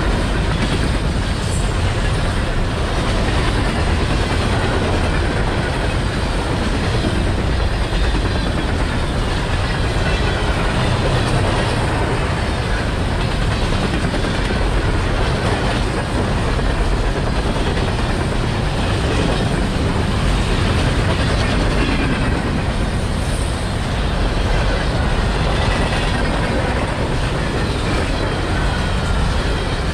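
Freight train rolling past with a steady, loud rumble of wheels on rail.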